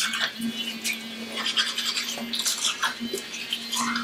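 Irregular brushing or rubbing strokes, short and scratchy, over a faint steady hum.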